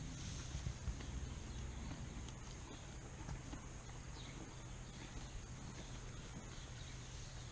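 Horses at a barn shifting about, with a few soft hoof knocks in the first second over a steady low hum, and faint bird chirps.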